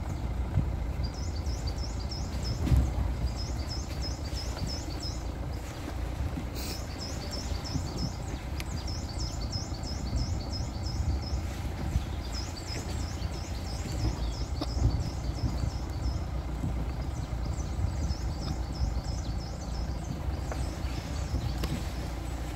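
A small bird singing repeated runs of high, quick chirps, about six to ten notes a run with short pauses between, over a steady low rumble.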